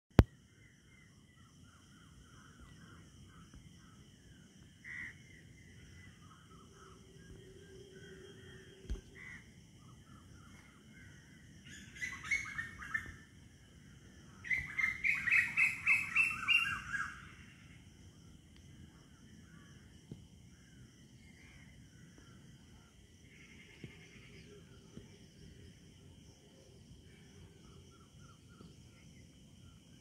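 Several birds chirping and calling. There are two loud bouts of rapid repeated notes around the middle, the second lasting about three seconds at roughly five notes a second. A steady high-pitched whine runs underneath.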